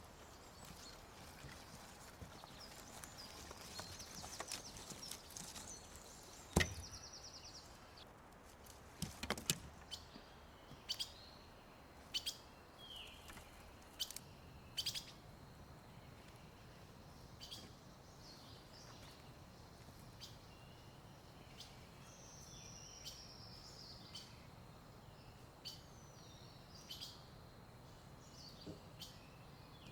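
Birds chirping and calling in the forest, with a fast trill early on and a few short whistles that fall in pitch later. A few sharp knocks cut in, the loudest about six and a half seconds in and several more around nine to ten seconds.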